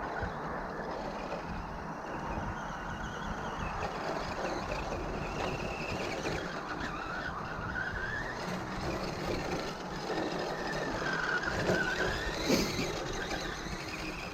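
Team Associated RC10T electric RC truck driving, its Schumacher stock motor whining over a steady rushing noise. The whine rises and falls in pitch several times in the second half as the throttle changes.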